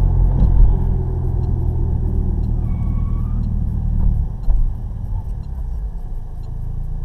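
Car driving, heard from a dash cam: a steady low engine and road rumble that eases off about four seconds in.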